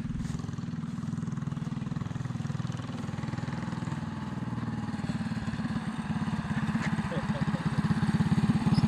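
Mini bike's small engine running steadily, its firing pulses growing louder over the last few seconds as the bike comes closer.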